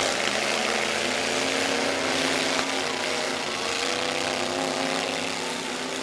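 Engines of demolition derby trucks running together, a loud, steady engine roar with a noisy haze over it.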